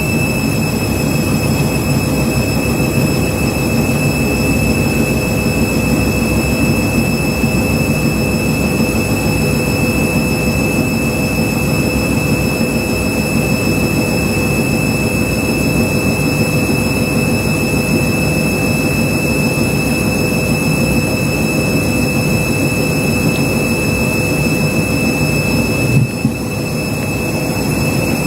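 Washing machine spinning at speed, with a steady high motor whine over a heavy low rumble from the drum. The drum is full of suds from a double dose of washing powder, the condition that causes a suds lock. A brief knock about 26 seconds in is followed by a short dip in the sound.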